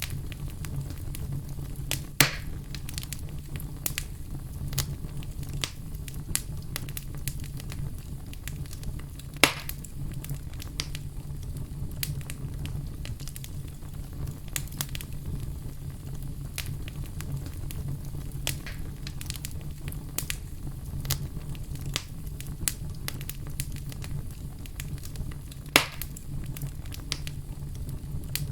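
Wood fire crackling: a steady low rumble of flames with frequent small snaps, and three louder pops, about two seconds in, about ten seconds in and near the end.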